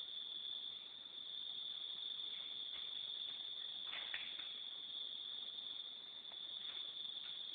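Steady, high-pitched insect chirring, unbroken throughout, with a few faint clicks about four seconds in.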